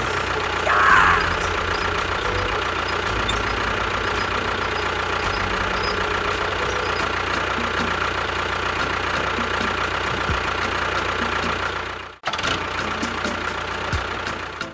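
Tractor engine running steadily with a low, knocking rhythm. It cuts out briefly about twelve seconds in, then carries on.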